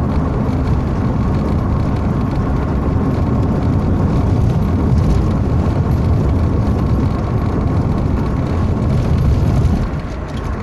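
Steady low rumble of a motor vehicle running, easing off a little near the end.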